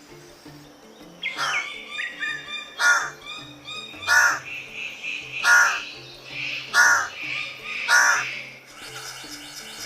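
A bird giving six loud, harsh calls, evenly spaced about a second and a quarter apart, with a whistled note just before the first call; soft background music runs underneath.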